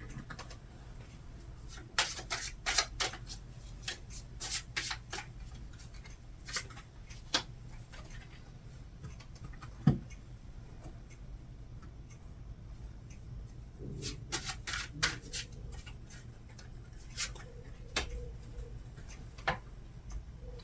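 Tarot cards being handled and laid down: irregular clusters of sharp snaps and taps as cards are drawn, flicked and placed, with one louder knock about ten seconds in.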